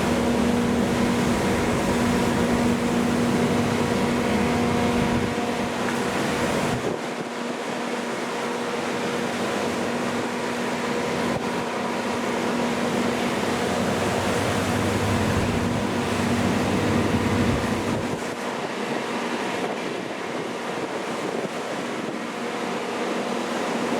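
Steady engine hum from a boat under way, over a wash of water and wind noise. The deepest rumble drops away about a third of the way in, returns, and drops away again near the end.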